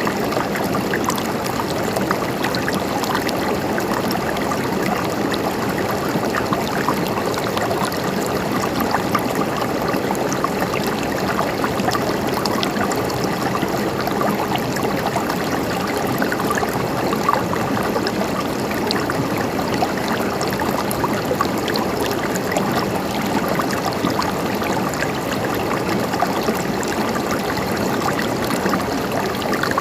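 River water flowing and gurgling over stones: a steady rushing babble with small splashes.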